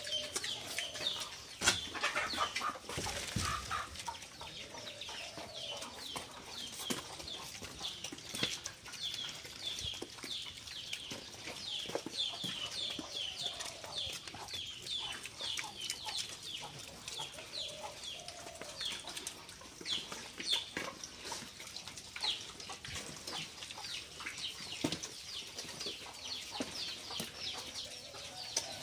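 Birds chirping continuously, many rapid high chirps overlapping, with a few lower calls every few seconds. There are some knocks and handling bumps near the start.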